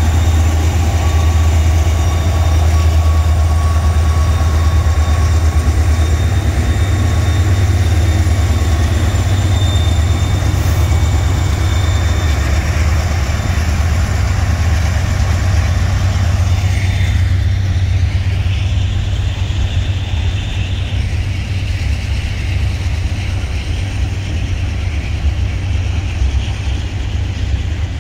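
Diesel locomotives passing close by with their engines running, a low rumble under a thin whine, followed by Herzog ballast cars rolling past on the rails. Just over halfway through, the whine fades and a steady low rumble of the cars' wheels remains.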